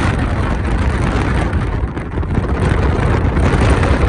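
Wind buffeting the microphone through an open car window, over the steady noise of the moving car.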